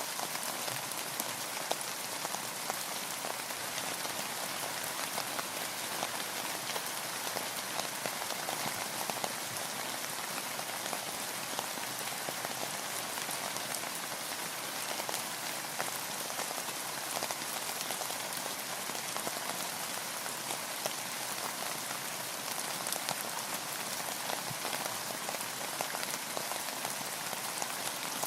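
Steady rain falling: an even hiss of countless drops, with many small drop ticks throughout and no change in strength.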